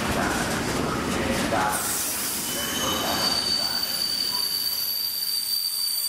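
Freight train of covered wagons rolling past, wheels rumbling on the track. About two seconds in, a high steady squeal from the wheels sets in at several pitches at once and holds while the rumble fades.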